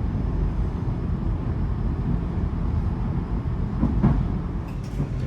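Tram running, heard from inside the car: a steady low rumble.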